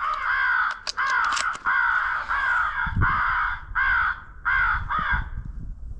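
Crow caws: a rapid run of harsh calls, roughly two a second, ending a little after five seconds in.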